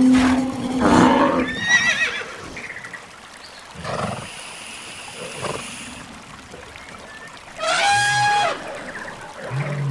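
Animal call sound effects, one after another: a loud call at the start, a wavering high call about two seconds in, softer calls around four to five seconds, and a strong, steady high-pitched call of about a second near the end.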